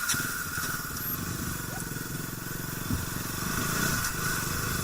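Motorcycle engine idling with an even low pulse, alongside a steady high-pitched tone.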